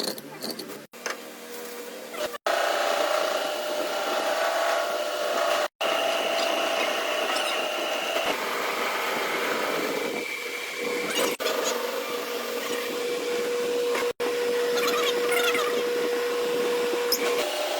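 Electric power tool running with a steady motor whine, broken off abruptly at several cuts.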